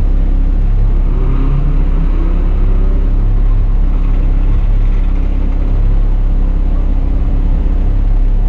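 Diesel bus engine running steadily under way, a loud low drone, with a short rise in pitch between one and two seconds in.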